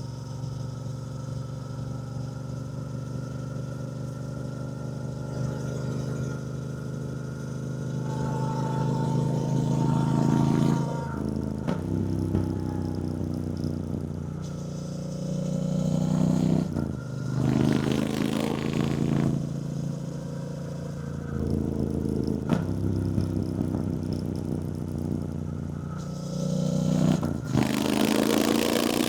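2024 Triumph Bonneville T120's 1200 cc parallel-twin engine running under way, pulling up through the revs and dropping back sharply several times as it shifts gears.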